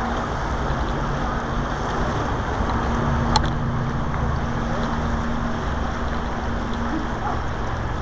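Big Thompson River rushing steadily, with a low steady hum underneath and a single sharp click a little over three seconds in.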